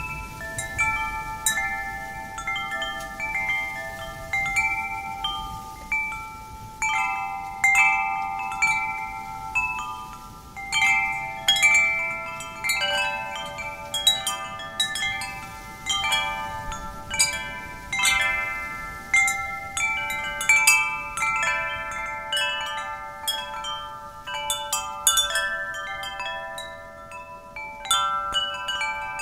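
Wind chimes ringing as the wind knocks them, several pitched metal tones struck in irregular clusters about once a second, each note ringing on and fading under the next.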